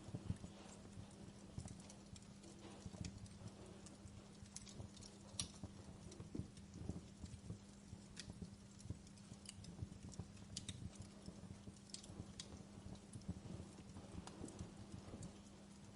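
Wood fire crackling in a fireplace, with irregular sharp pops and snaps from the burning logs.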